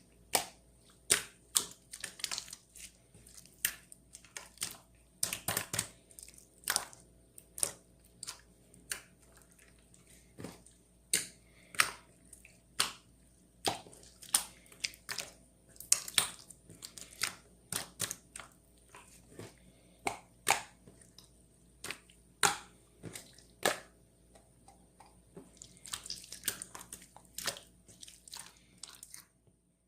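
A long series of sharp clicks and taps at an uneven pace, roughly one or two a second, over a faint steady hum, stopping abruptly near the end.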